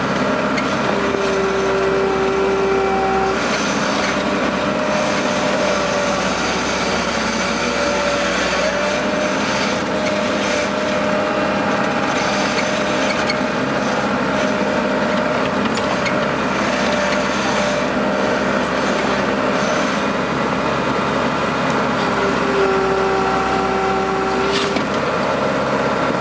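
Case skid steer loader's diesel engine running steadily under work. A steady whine comes in over it twice, for a couple of seconds each time: about a second in and again near the end.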